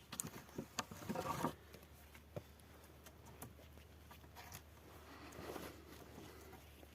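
Faint rustling and crackling with scattered sharp clicks, a denser burst about a second in and a softer one near the end.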